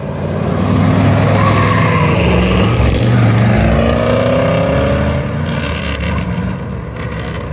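V8 engines of classic C2 Corvette Sting Rays revving and accelerating as the cars drive past one after another, the engine pitch rising and falling. Loudest through the middle, easing off after about five seconds.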